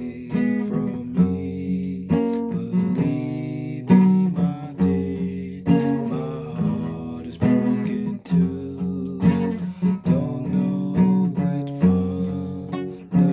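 A guitar being played, chords and single notes plucked and strummed, each struck note ringing on before the next.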